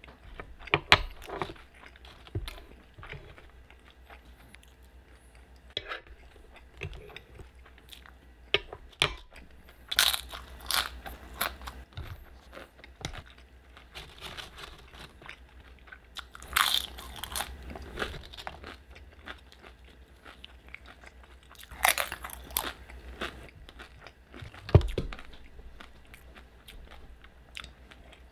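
Close-miked chewing and crunching of food, with loud crisp crunches coming in bunches every few seconds, the crunchiest bites being tortilla chips dipped in salsa.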